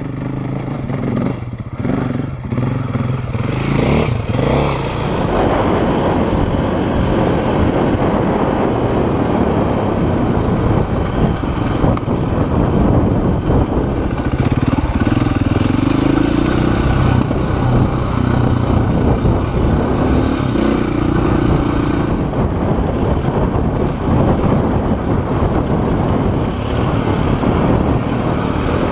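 Dual-sport motorcycle engine running as the bike is ridden along a dirt trail, its pitch rising and falling with the throttle, under a dense rush of wind noise on the microphone.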